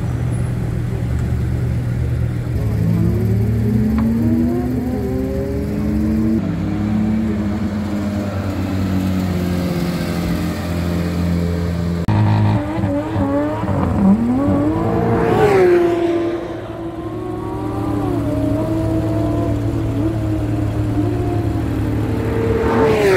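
Porsche 911 flat-six engines as several cars drive off along the pit lane one after another, revs rising and falling as each pulls away. It is loudest about two-thirds of the way through and again at the very end.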